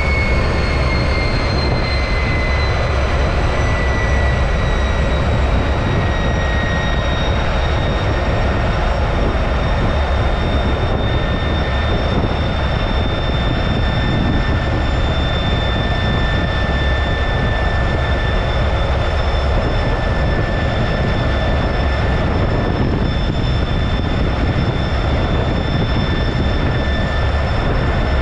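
T-33 jet trainer's Allison J33 turbojet running, heard from the cockpit: a steady rushing noise with a low rumble and a high whine that slides slightly down in pitch over the first several seconds, then holds steady.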